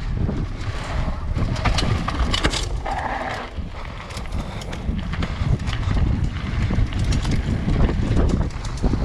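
A mountain bike ridden along a dirt trail, heard from an action camera: wind buffets the microphone over a steady low rumble of the tyres, with frequent rattles and clacks from the bike as it rolls over rough ground. A short higher tone comes about three seconds in.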